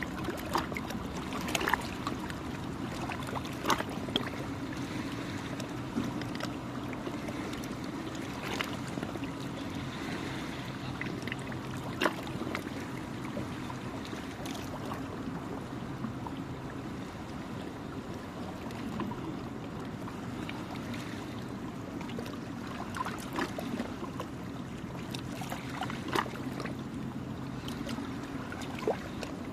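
Small waves lapping and splashing at the shore in irregular little strokes, over a steady low engine drone.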